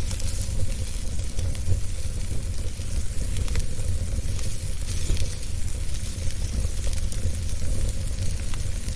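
Wood fire burning in a fireplace: a steady low rumble of the flames with scattered small crackles and pops throughout.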